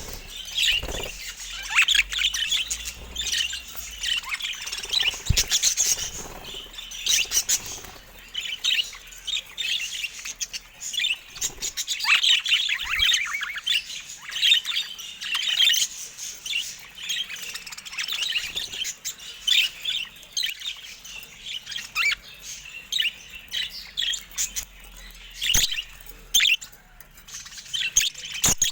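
Budgerigars chirping and warbling continuously, several birds at once, with a few sharp clicks mixed in.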